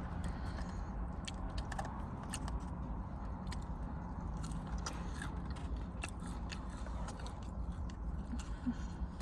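Close-miked eating of fast food: biting and chewing with many short, sharp mouth clicks and crunches, over a steady low hum.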